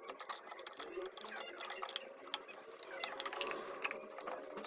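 Irregular light clicks and scrapes of parts being handled as a cover is fitted onto a demolition hammer under repair.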